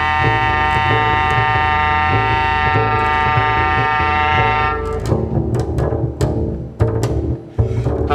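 Contemporary chamber music for clarinet and double bass: a held high tone with many overtones over a low, pulsing bass pattern. About five seconds in, the held tone stops and a run of sharp clicks and slaps follows.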